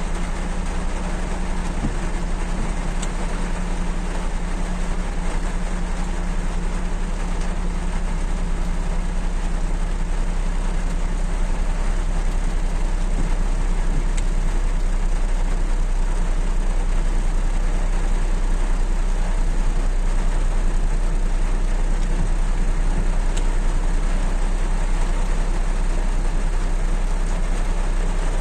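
Steady, loud rain falling on a Suzuki Mehran car, an even hiss of drops with a steady low hum underneath.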